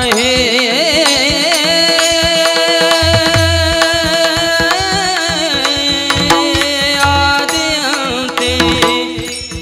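Devotional kirtan music: long held melodic notes, wavering for the first couple of seconds, then steadier, over tabla-style drum strokes, easing slightly near the end.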